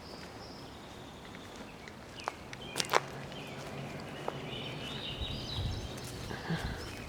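Trail ambience with a few sharp steps or clicks about two to three seconds in, and songbirds twittering in the latter half.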